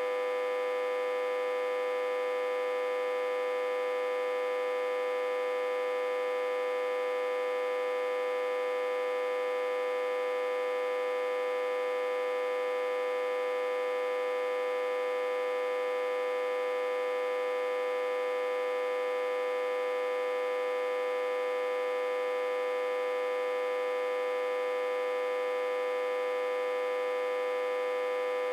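Autotransformer humming steadily, one unchanging, fairly high-pitched electrical drone. It is fed about 60–80 V through a step-down transformer connected in reverse.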